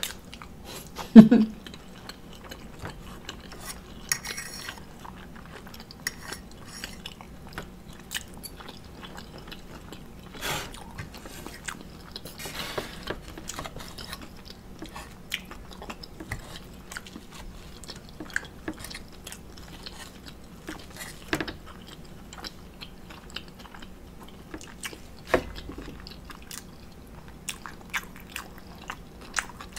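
Close-miked mouth sounds of chewing omelet and waffle, with fork clinks and scrapes on the plate scattered throughout. A short low vocal sound comes about a second in.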